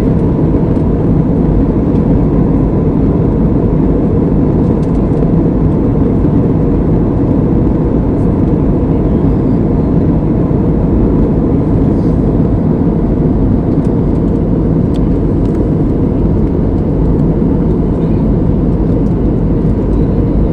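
Airplane noise: a loud, steady low rumble that does not change.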